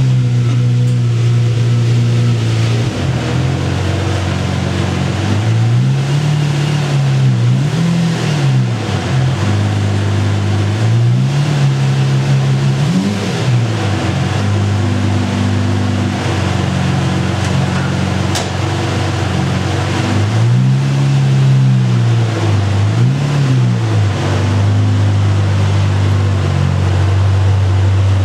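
Lamborghini Murcielago V12 idling steadily, blipped six times in three pairs of quick revs that rise and fall back to idle.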